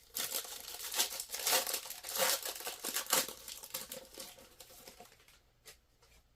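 Crinkling of a trading card pack wrapper being handled and opened, a dense crackle that dies away about five seconds in, leaving one small click.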